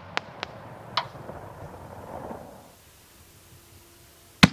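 Excalibur consumer artillery shell: the tail of a burst, with a few scattered crackling pops in the first second and a fading rumble. After a short quiet gap comes a single loud, sharp bang near the end, the lift charge firing the next canister shell from its mortar tube.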